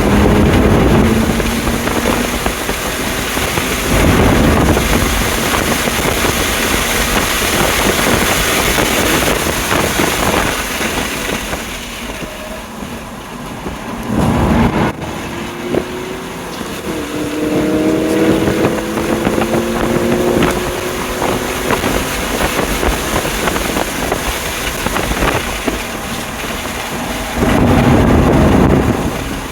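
2020 BMW M2 Competition's twin-turbo 3.0-litre straight-six at full power on track, its pitch climbing and dropping repeatedly through the gears, under heavy wind noise on the microphone. The engine eases off briefly about halfway through before pulling again.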